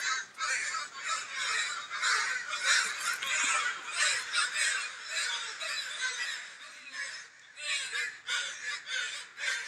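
Crows cawing over and over in harsh, rapid calls.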